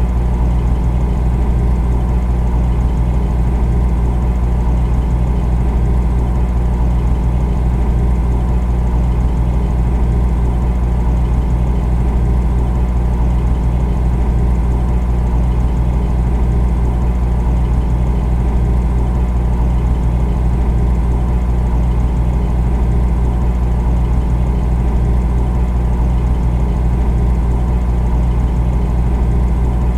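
Refrigerator running with a steady low hum.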